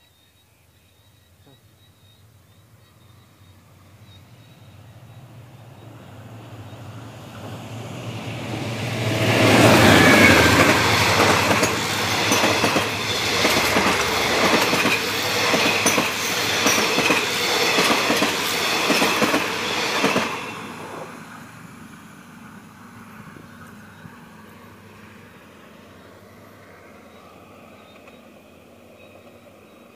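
Passenger train hauled by a diesel-electric locomotive running through a station without stopping: the locomotive's low engine hum builds over several seconds, then loud, rapid, regular clickety-clack of the coaches' wheels over the rail joints for about ten seconds, dropping away sharply as the last coach passes.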